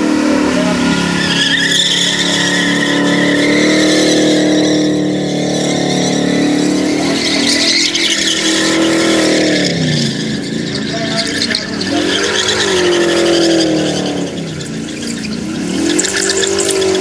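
Holden VP Commodore's 355 stroker V8 held at high revs in a burnout, with the hiss of spinning rear tyres. After about nine steady seconds the revs drop and climb back several times.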